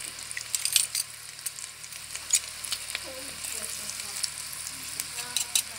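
Butter sizzling and crackling around boiled potatoes frying in a Redmond multicooker's bowl on its frying mode, an even hiss with frequent sharp pops.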